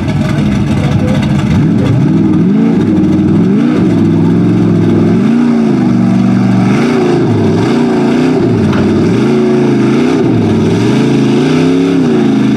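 Lifted Chevy mud truck's engine, loud and revving up and down over and over as the driver works the throttle through the mud pit.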